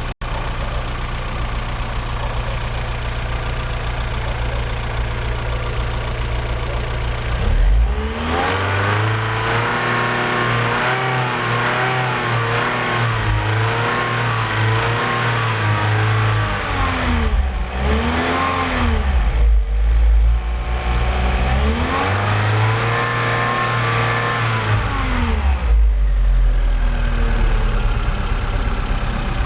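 Vectra 2.2 16V four-cylinder petrol engine idling, then revved: a long rev held for about eight seconds, a short blip, and another held rev of a few seconds, each falling back to idle.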